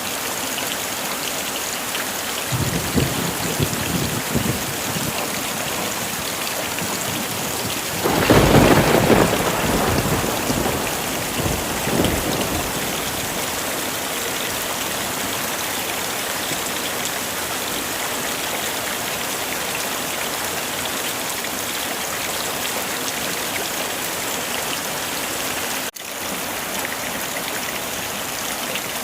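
Heavy, steady rain with thunder. A low rumble comes a few seconds in, then a louder thunderclap about eight seconds in rolls away over some four seconds, under the constant rain hiss. There is a momentary dropout near the end.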